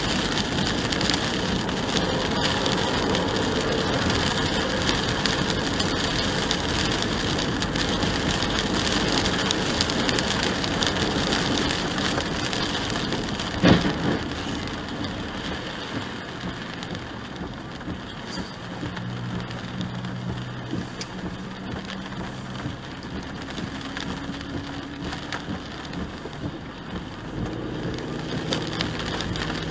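Steady road and tyre noise of a car driving, heard through a dashcam, with a rain-like hiss over it. A single sharp thump comes about 14 seconds in. From about 19 seconds on a low engine hum comes and goes.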